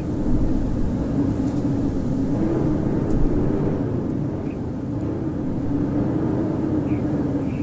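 Howling blizzard wind: a steady low rush with a moaning tone that wavers slightly in pitch.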